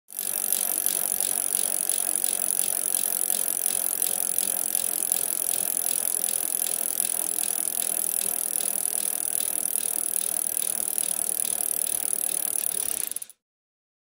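Bicycle clicking mechanically in a steady run of rapid ticks, cutting off about a second before the end.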